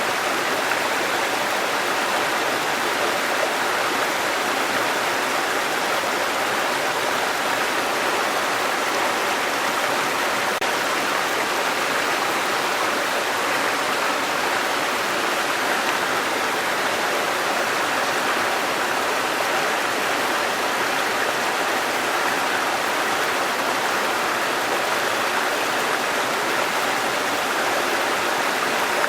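Waterfall, water falling and rushing in a steady, even roar.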